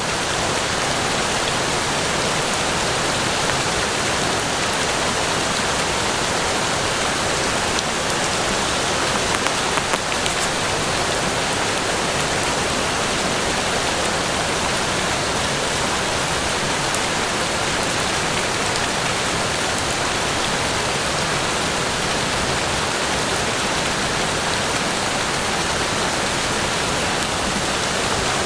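Steady rain falling on forest foliage: an even, unbroken hiss of many drops.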